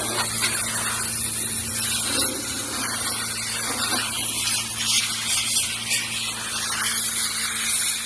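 Pressure washer running and spraying an engine clean: a steady motor hum under the even hiss of the water jet.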